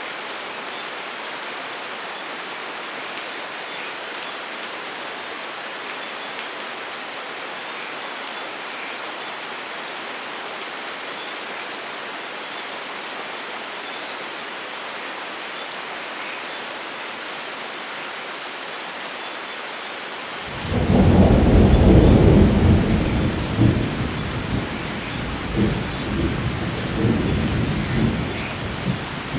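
Steady heavy rain falling, then about two-thirds of the way through a sudden loud rumble of thunder that peaks quickly and rolls on, slowly fading, over the rain.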